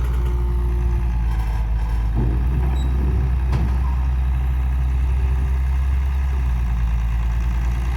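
Heavy diesel engine idling steadily, with some clatter a couple of seconds in and a sharp knock at about three and a half seconds.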